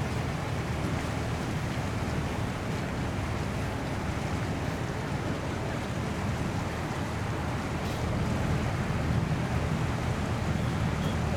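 Steady rush of wind and sea waves, with wind rumbling on the microphone; it grows a little louder about eight seconds in.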